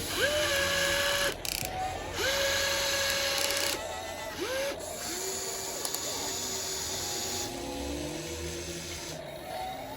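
Small electric motors of a radio-controlled toy excavator whining in a series of short runs as it works. Each run rises quickly in pitch at the start and then holds steady, and the later runs are lower in pitch.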